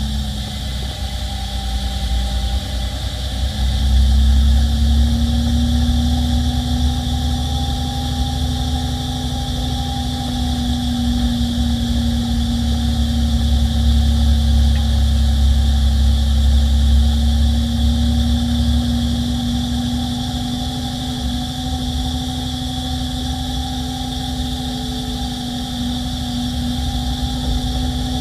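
Peterbilt 348 plow truck's diesel engine and drivetrain running steadily under way, with a low rumble and a steady whine. It grows louder about four seconds in, then eases off somewhat after about eighteen seconds.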